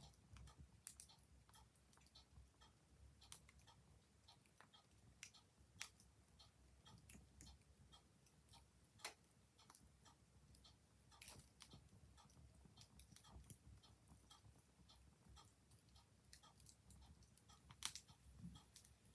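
Wood fire crackling faintly, with irregular sharp pops, the loudest about halfway and near the end, while a clock ticks alongside.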